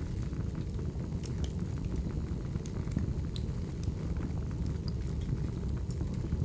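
Crackling wood fire: a steady low rush of burning logs with scattered sharp pops and crackles.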